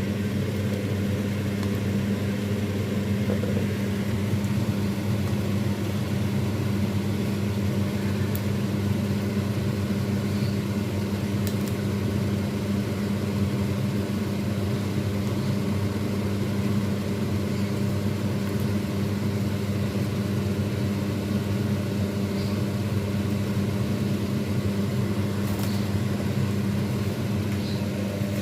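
A steady low machine hum running without change.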